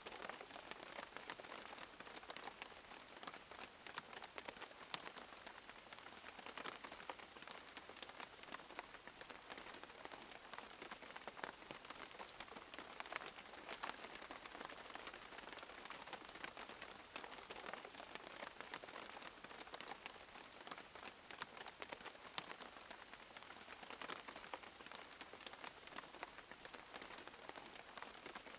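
Steady rain falling on a surface, a dense patter of individual drops with no thunder.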